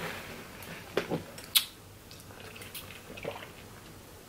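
Close-up eating sounds from crab legs and shrimp in butter sauce: a few sharp clicks and wet smacks, the loudest about a second and a second and a half in, then fainter chewing and handling.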